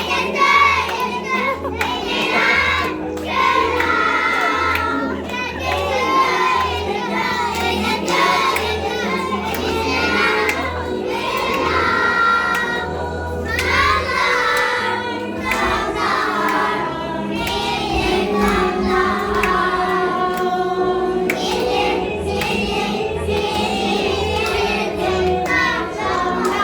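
A group of young children singing together over backing music.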